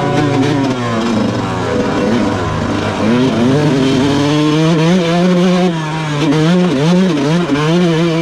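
Yamaha YZ125 two-stroke motocross bike engine being ridden hard, its pitch climbing and dropping repeatedly as it revs up and shifts through the gears.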